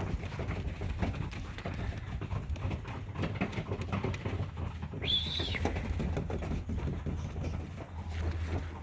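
Pigeons cooing, with scattered small taps and scuffs. A brief high squeak comes about five seconds in.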